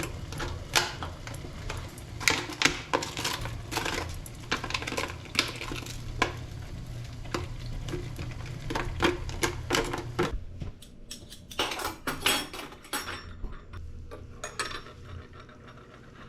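Dishes and utensils clattering and clinking as they are handled, in a series of short sharp knocks. A steady low hum runs underneath and stops about ten seconds in.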